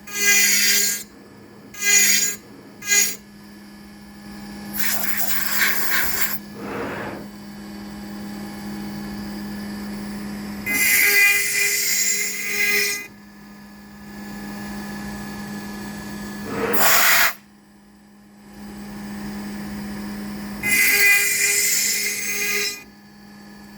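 Spindle of a home-built CNC router running steadily, with repeated louder bursts of cutting noise, each a second or two long, as the end mill bites into pine during adaptive pocket clearing.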